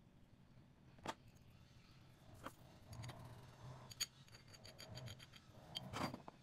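Faint, scattered clicks and light scraping: four sharper clicks spaced over several seconds, with soft rubbing between them.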